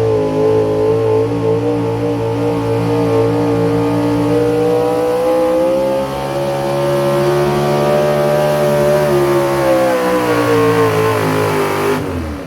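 The engine of a pulling truck or tractor running hard at high revs. Its pitch holds nearly steady, rising a little partway through and easing off near the end, and the sound cuts off suddenly at the very end.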